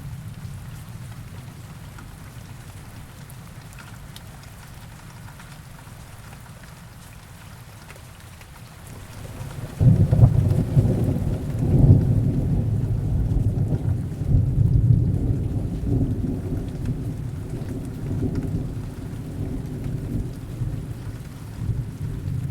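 Heavy rain falling steadily, with a roll of thunder breaking in about ten seconds in: a deep rumble that starts suddenly, peaks over the next couple of seconds, then slowly dies away under the rain.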